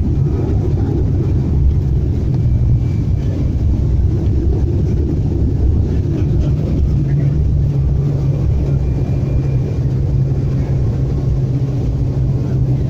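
Steady low rumble of a turboprop airliner's engines and airflow heard inside the passenger cabin during landing, with a low hum that grows stronger about halfway through.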